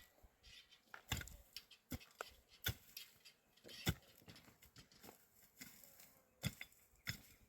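A few light, scattered clicks and knocks at uneven intervals, with faint quiet between them.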